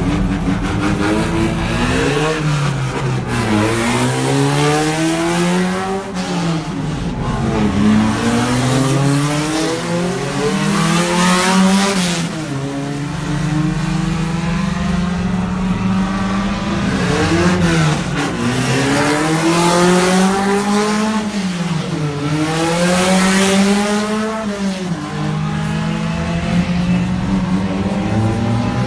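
Race car engines running hard as the cars go by on the track, each revving up in a climbing pitch and then dropping sharply at the gear changes and lifts. Several cars overlap and sweep past one after another.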